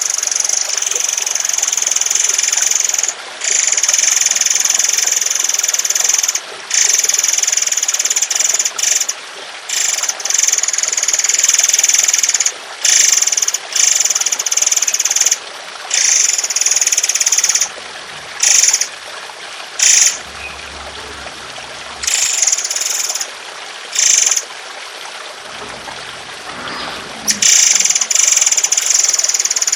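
Songbird giving long, harsh, rapid bursts of high-pitched song, broken by short pauses, over a steady trickle of running water.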